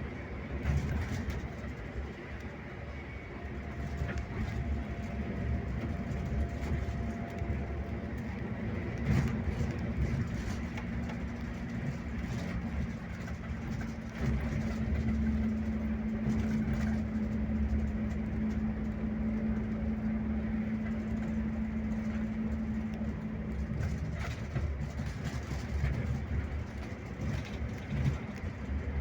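Scania K360IB touring bus under way: its diesel engine runs with a steady note for much of the time, over a continuous low rumble of the road. A few short knocks and rattles come through now and then.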